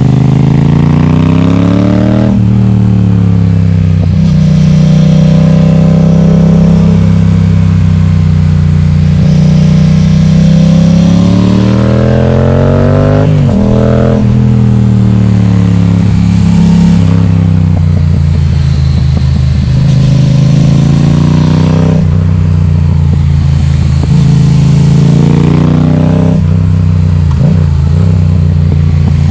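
Yamaha XSR700's parallel-twin engine running loud through an Akrapovic exhaust with the baffle removed, revving up and dropping back again and again as the bike accelerates and eases off. The pitch falls sharply about two seconds in and again about halfway through.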